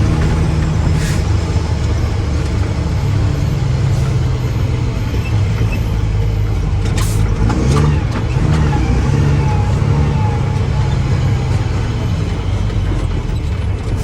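Mack dump truck's diesel engine running steadily, with a sharp knock about a second in and another about seven seconds in. The engine note wavers briefly at about eight seconds.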